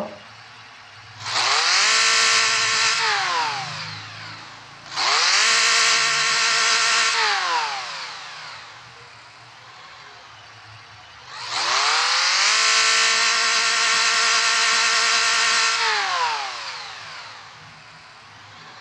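Car engine revved three times: each time the pitch climbs, holds steady at high revs for a few seconds, then falls back to idle. The third rev is held longest.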